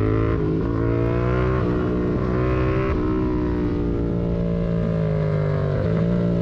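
Yamaha MT-07's parallel-twin engine through a Mivv aftermarket exhaust, ridden on the road. The note climbs in pitch over the first few seconds with a few brief breaks, holds fairly steady through the middle, and breaks and changes again near the end.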